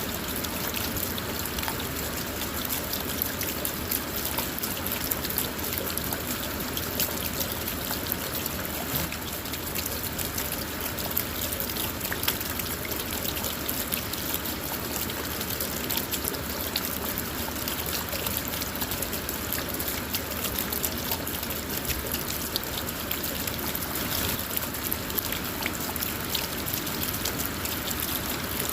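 Steady rain falling on a car, a dense patter of separate drops over a constant rushing wash.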